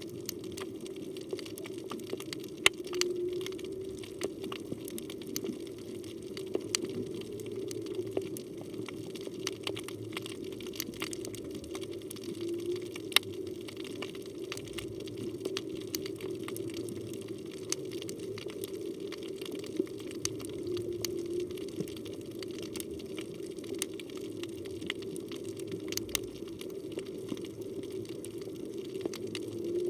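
Underwater reef ambience: a steady low hum with scattered sharp crackling clicks throughout.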